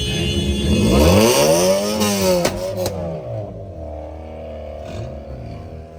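Modified car engines revving up and easing off several times. A quick run of sharp cracks comes about two and a half seconds in.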